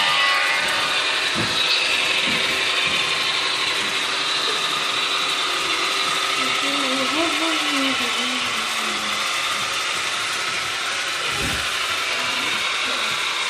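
HO scale model locomotive running on the layout: steady mechanical whirring of its motor and gear drive, with the wheels on the rails.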